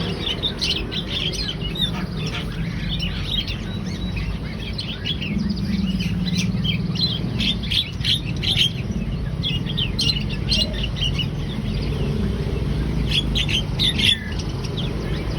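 Javan myna (jalak kebo) singing prolifically: rapid runs of short, sharp chattering notes, over a steady low hum.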